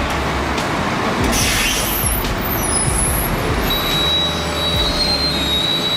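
Heavy machinery running loudly, with metallic squeals: high gliding squeals about two seconds in, then a thin steady squeal from about four seconds on.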